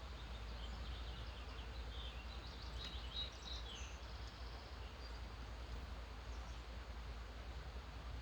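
Wild songbirds chirping and trilling in the early morning, a quick run of short high notes in the first half that thins out after about four seconds. Under them run a steady background hiss and a constant low hum.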